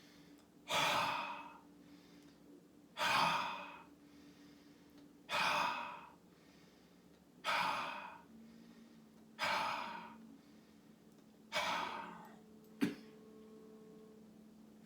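Six forceful breathy exhalations, each like a deep sigh: the QiGong heart healing sound, repeated about every two seconds, each starting sharply and fading away. A single short click follows the last one.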